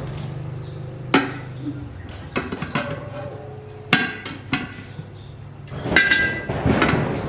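Metal tools and parts knocking and clinking, with several sharp metallic strikes; one rings briefly about six seconds in. A low steady hum fades out about two seconds in.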